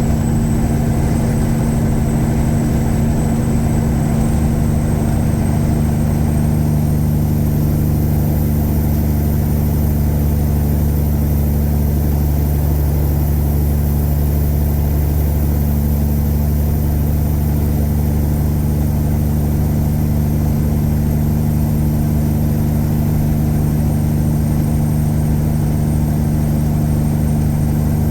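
Tuned Caterpillar 3406E inline-six diesel in a Freightliner Classic semi truck running steadily under way, with no gear changes. A faint high whine sits above the engine and rises slightly several seconds in.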